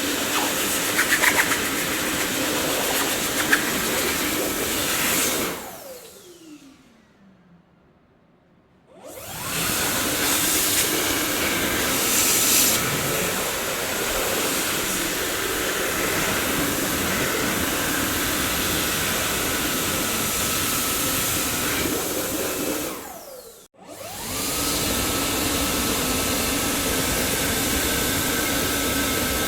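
Dyson vacuum cleaner running with a steady whine over a rush of air. About six seconds in it is switched off and the motor winds down with a falling whine into near silence, then it starts up again a few seconds later. Late on it cuts out once more and restarts almost at once, its whine rising and settling.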